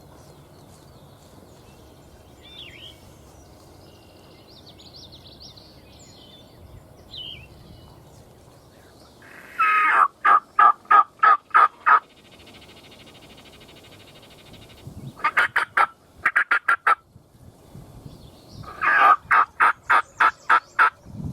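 Wild turkey gobbling three times. Each gobble is a loud, fast rattling run of notes, the first about ten seconds in. Faint songbird chirps come earlier. The hunters take the gobbling to come from toms still in the wood line.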